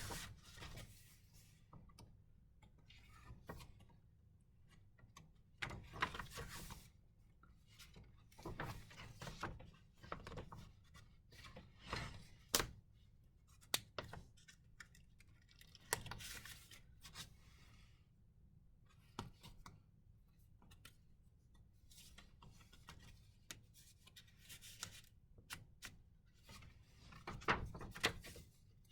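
Pages of a handmade journal being turned and handled: short papery swishes every second or two, with a few sharp taps and thumps.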